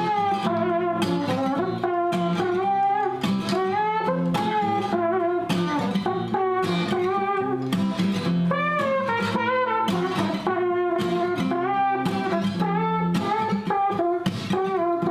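Acoustic guitar strummed in a steady rhythm through an instrumental break of a pop song, with a wordless melody line over the chords.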